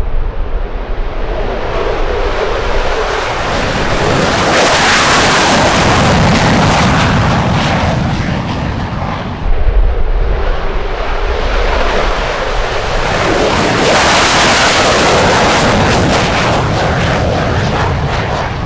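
Military fighter jet engine noise, a loud roar that swells twice, with a sudden jump in level about nine and a half seconds in.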